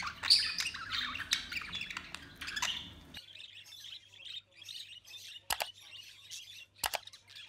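Budgerigars chirping and chattering with quick, high squeaky calls, busier for the first three seconds and then quieter. Two sharp clicks stand out later on.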